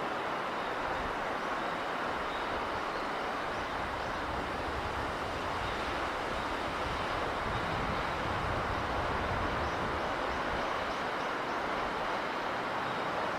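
Steady rushing of sea wind and surf, with a deeper low swell around the middle.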